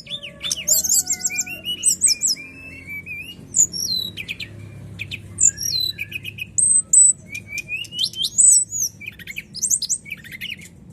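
Brown-chested jungle flycatcher (sikatan rimba dada coklat) singing a long, varied song of quick chirps, sweeping whistles and short trills, clear and high.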